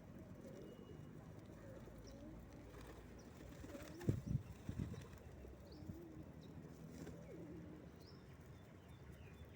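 Pigeons cooing softly while feeding on scattered bread, with a few faint chirps from other birds. A couple of low thumps about four and five seconds in.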